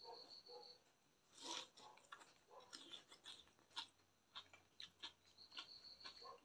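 Faint close-miked eating sounds: chewing and wet mouth clicks from someone eating chicken curry and rice by hand, with many short soft clicks starting about a second and a half in.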